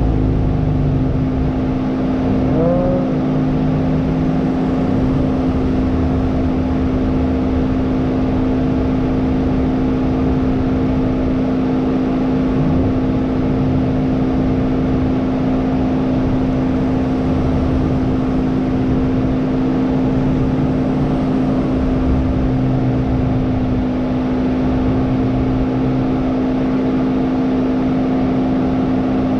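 Hyundai Elantra N's turbocharged 2.0-litre four-cylinder running at a steady, unchanging speed: a constant hum with no revving.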